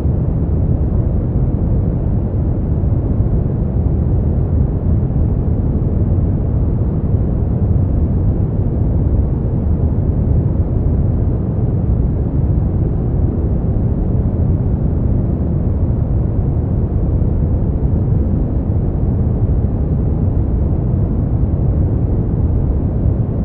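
Continuous generated noise played as a sleep aid, steady and unchanging, with its weight in the deep end so it sounds like a dark, muffled hiss with no highs.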